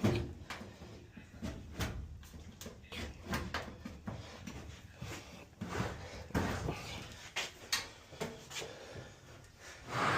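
Irregular knocks, clicks and clatter of hands and tools working on a clothes dryer's sheet-metal cabinet during disassembly, with a louder knock near the end.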